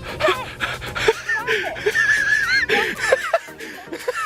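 People laughing, with a high wavering squeal about halfway through.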